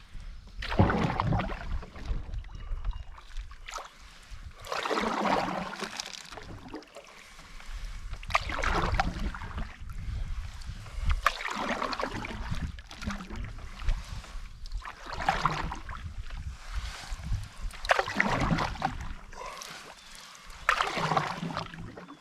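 Canoe paddle strokes in lake water, one splashing swish about every three and a half seconds, seven in all, over a low rumble.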